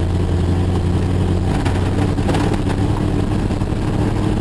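Jeep engine running steadily under way, heard from inside the cabin, with a short cluster of knocks and rattles about two seconds in as it rides over rough ground.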